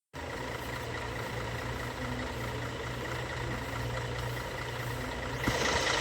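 Vehicle engine running with a steady low hum under an even hiss; about five and a half seconds in, the hiss swells louder.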